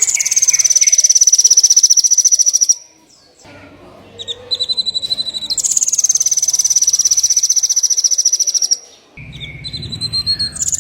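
Small songbird singing a high, rapid trill, each held for about three seconds and led in by a few shorter, lower notes; the phrase comes twice.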